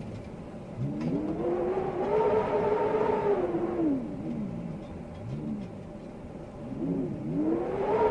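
Storm wind howling in gusts: a moaning tone rises about a second in, holds for a few seconds and falls away, then a short rise and fall, and a new howl climbs near the end.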